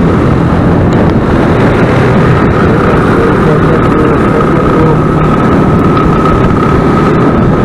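Motorcycle engines running steadily together, a dense continuous engine noise, with a thin steady high whine joining about two seconds in.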